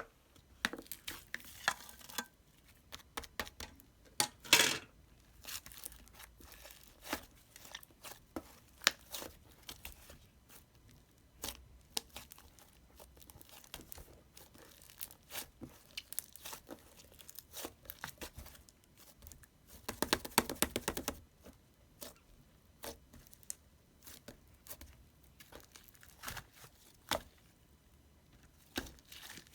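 Close-up crinkling and crackling of handled material, with many scattered sharp crackles. Two longer tearing or crumpling passages come about four seconds in and again around twenty seconds in.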